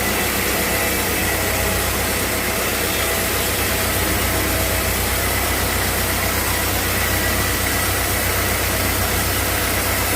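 Sawmill machinery running steadily: a constant, unchanging drone with a low hum and a faint high whine.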